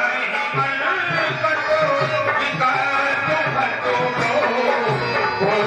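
Indian devotional music with a steady tabla beat under a wavering melody line.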